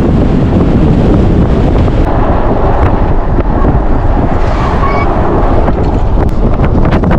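Loud, steady wind noise buffeting the camera microphone on the water.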